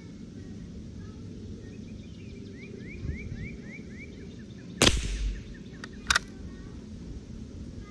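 A single shot from a J.C. Higgins single-shot .22 LR rifle firing subsonic match ammunition, about five seconds in, with a short decaying crack. Two sharp clicks follow about a second later. A bird chirps a quick series of notes a little before the shot.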